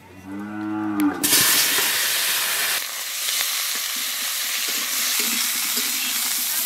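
A cow moos once, a low call of about a second. Then, about a second in, cauliflower florets drop into hot oil in a karahi and set off a loud, steady sizzle, stirred with a metal spatula.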